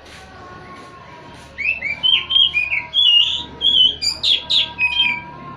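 Oriental magpie-robin (kacer) singing a fast run of varied whistled notes that starts about a second and a half in, with a few sharper, higher notes near the end.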